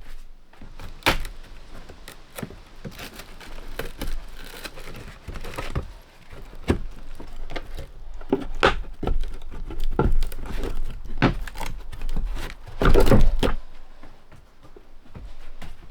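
Irregular knocks, thuds and clattering of wood and tools being handled inside a wooden sailboat's cabin, with a louder clatter about thirteen seconds in.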